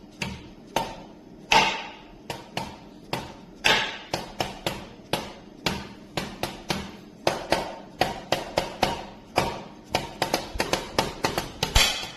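Drum beat played with sticks on a Donner DED-80 electronic drum kit: a quick, steady run of strikes with a few louder crash-like hits that ring on, about one and a half seconds in, near four seconds in, and near the end.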